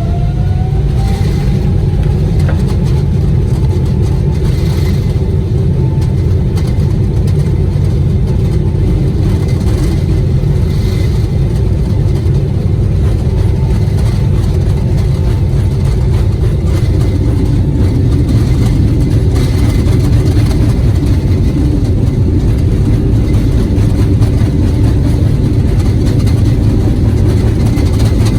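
Jet airliner's take-off roll heard from inside the cabin: the engines' whine rises and levels off at the start, over a steady loud rumble that grows slightly louder, with occasional faint knocks from the wheels on the runway.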